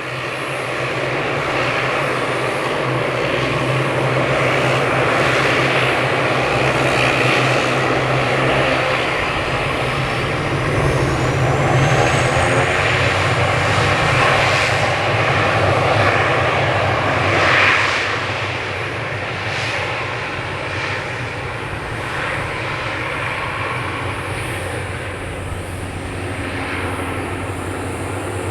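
Bombardier DHC8-Q400 turboprop on its takeoff run at full power. The propeller drone builds as it accelerates, is loudest about two thirds of the way in, then eases off as it climbs away.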